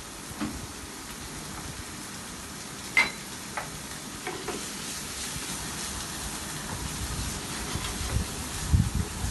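Quartered canned mushrooms sizzling in a frying pan as they are stirred, the sizzle growing about halfway through. A sharp clink of a utensil on the pan comes about three seconds in, and there are a few knocks near the end.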